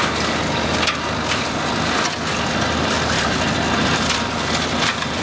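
Old farm tractor engine running steadily under load, with irregular cracks and knocks of wood over it.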